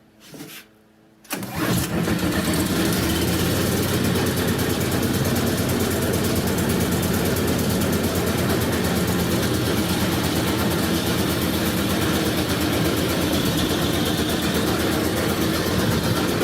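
Predator 301cc single-cylinder four-stroke engine on a snowblower starting cold on choke for its first start. It catches about a second in and then runs steadily with an even, fast pulse.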